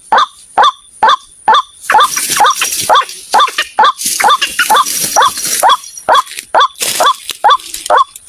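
White-breasted waterhen calls used as a trapping lure: one short, hooked call note repeated steadily about twice a second, speeding up slightly after a couple of seconds. From about two seconds in, a hiss sits under the calls for a few seconds.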